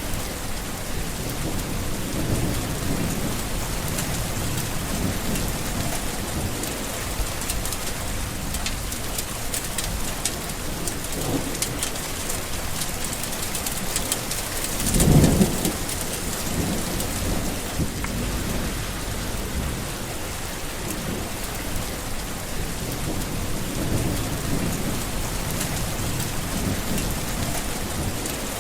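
Steady heavy rain falling, with rolls of thunder rumbling low; the loudest thunderclap comes about halfway through.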